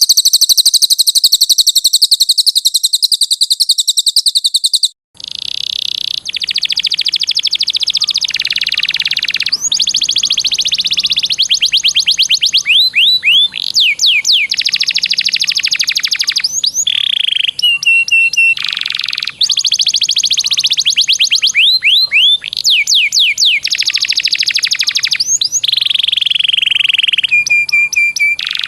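Recorded songbird song of the kind played as masteran for training caged birds. A very high, very fast trill runs for about five seconds, then cuts to a different bird singing long, rapid rolling trills broken by sweeping whistled notes.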